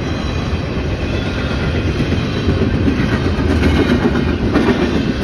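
Double-stack intermodal freight train cars rolling past: steady rumble and wheel noise on the rails, with a few wheel clacks, growing louder in the second half.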